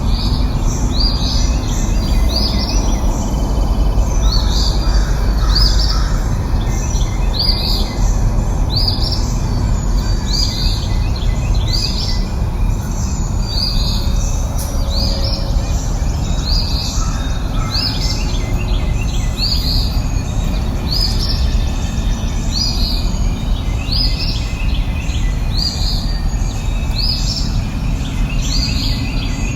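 A songbird calling over and over, a short high chirp roughly once a second, over a steady low background noise.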